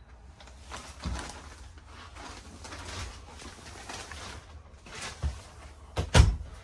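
Scattered knocks and handling thumps inside a travel trailer's bedroom, with one loud thump about six seconds in; a dove coos faintly in the background.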